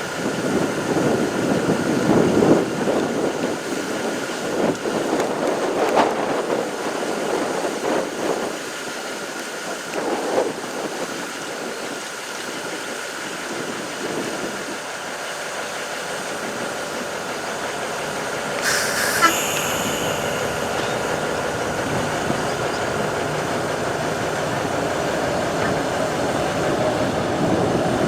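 GE 80-ton center-cab diesel switcher locomotive running steadily with a constant tone over it. About 19 seconds in there is a short, sharp, high-pitched sound.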